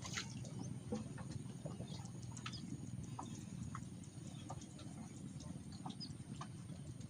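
Scattered short bird chirps, a few every second, over a steady low background noise.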